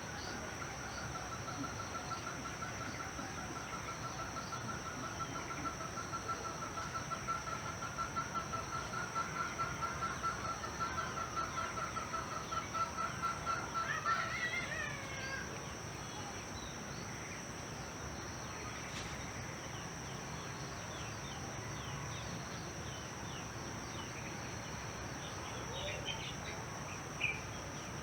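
Rural outdoor ambience with a steady high-pitched insect drone throughout. Over the first half a long, rapidly pulsing trill grows louder and ends about halfway in with a few quick rising chirps. Scattered faint bird chirps and one short sharp call come near the end.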